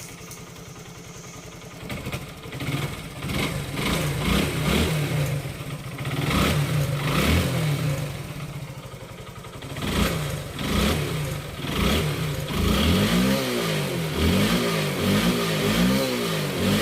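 Hero Honda Glamour motorcycle's single-cylinder four-stroke engine idling, then revved repeatedly, with several quick rev blips near the end. The engine has just been rebuilt with a new connecting-rod (crank rod) set, piston, valves and timing chain, and the crank knock is gone: the crank sound is completely silent.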